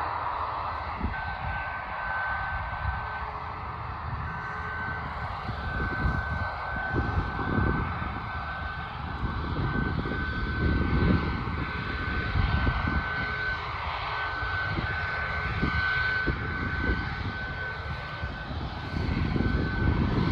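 Airliner engines running with a steady high whine. Wind buffets the microphone in irregular low gusts.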